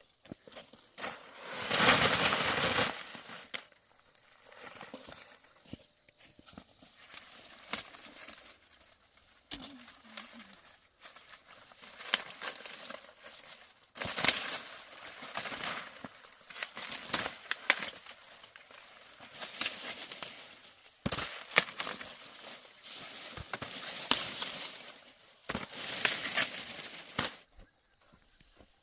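Dry plant leaves or husks rustling and tearing in repeated bursts of a few seconds each, as they are handled.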